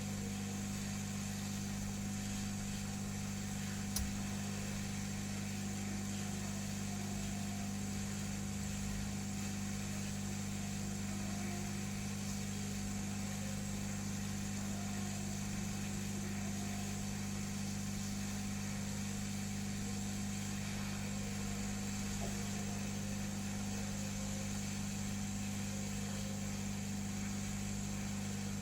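Hot-air rework station's blower running steadily at working temperature, a constant hum with a hiss. A single short click about four seconds in.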